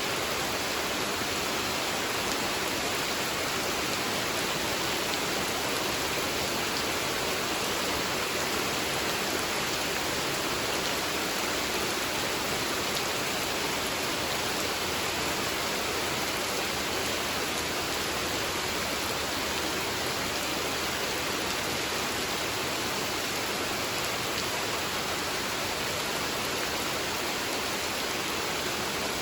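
Steady rain falling on a pond: an even hiss with the patter of drops on water.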